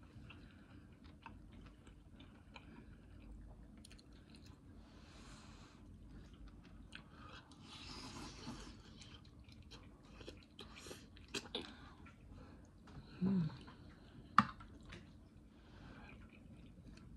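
Close-miked chewing and mouth sounds of someone eating chicken curry and bread: soft wet smacks and small clicks at an uneven pace, with one sharp click near the end.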